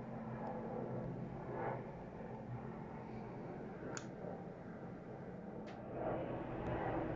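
Steady low rumble of distant aircraft jet engines at an airport, growing louder about six seconds in, with two short clicks partway through.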